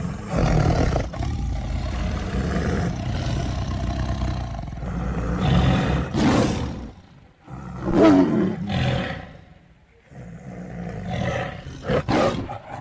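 Tigers roaring and growling in a run of long, deep calls, with a short break about seven seconds in and the loudest call, falling in pitch, just after it.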